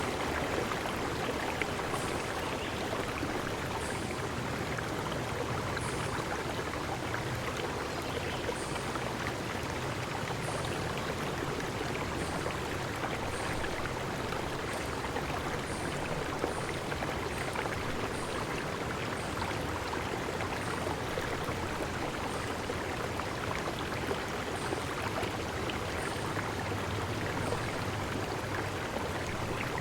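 Steady rush of a flowing stream, with short high chirps repeating every second or two.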